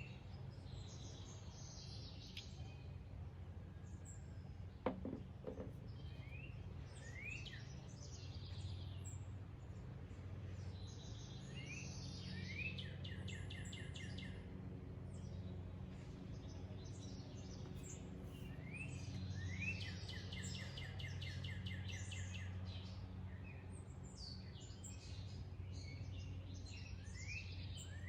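Wild birds singing outdoors: repeated song phrases of quick rising notes that end in a fast trill, coming every few seconds, over a steady low hum. A single sharp click about five seconds in.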